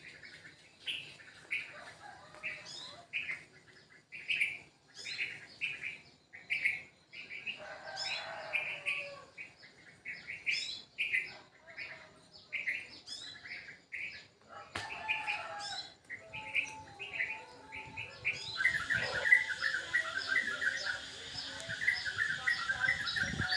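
Small birds chirping: short chirps repeated about once a second, then, from about three-quarters of the way through, a louder, denser chorus of many birds chattering together.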